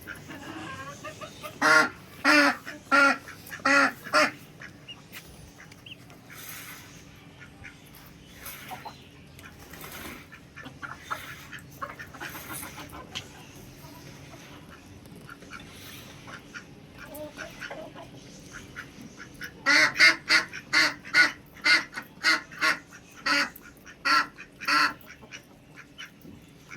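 Domestic ducks quacking. There is a quick run of about five loud quacks about two seconds in, scattered quieter calls after it, then a longer run of about a dozen quacks near the end.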